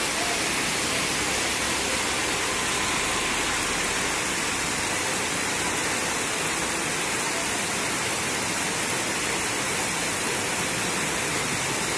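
Heavy rain pouring down onto a paved street: a steady, even hiss.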